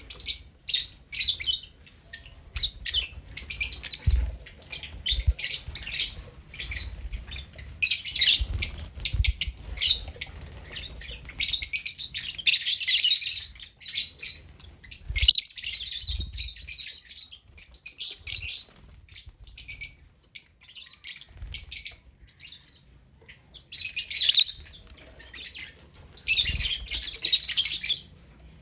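Lovebirds chirping in rapid, shrill bursts of short high notes, with a few low thumps between the bursts.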